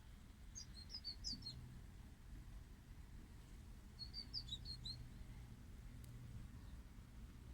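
A small bird chirping in two short bursts of quick high notes, about three and a half seconds apart, over a faint steady low hum.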